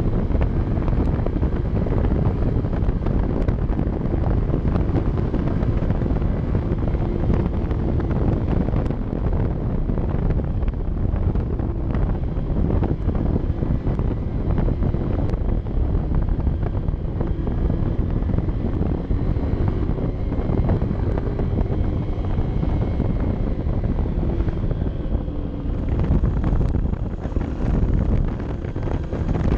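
Honda CB 125 F's single-cylinder engine running under heavy wind buffeting on the camera microphone, the engine note drifting up and down in pitch.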